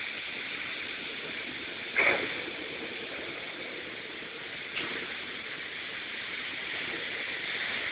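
Heavy rain pouring steadily in a downpour, with one short sharp sound about two seconds in and a fainter one near five seconds.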